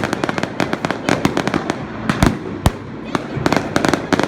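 Fireworks going off: a fast, irregular string of sharp firecracker bangs, several a second, with a couple of heavier booms a little past the middle.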